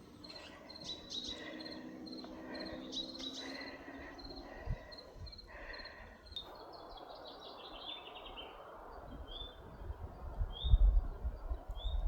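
Small birds singing outdoors: a regular pulsed high note and short chirps, then a descending trill of quick notes about six seconds in, followed by a few short rising chirps. Low wind buffeting on the microphone grows near the end.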